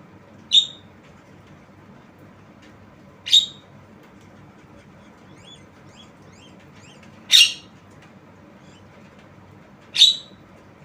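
Javan myna giving four short, harsh calls a few seconds apart, with faint small chirps in between.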